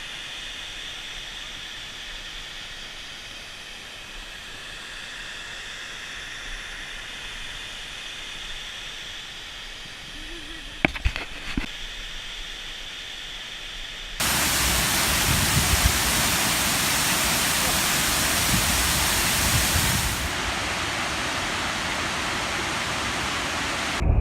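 Dynjandi waterfall's rushing water, a steady even hiss, with a few handling clicks about eleven seconds in. About two-thirds of the way through it cuts suddenly to a much louder, closer rush that drops back a little near the end.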